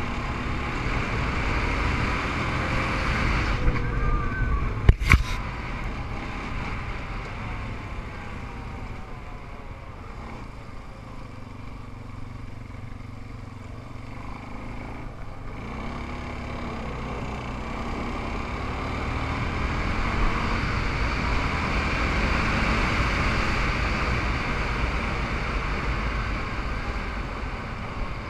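Small off-road engines, ATVs and dirt bikes, running and revving, their pitch rising and falling as they move about and swelling louder about twenty seconds in. Two sharp knocks about five seconds in.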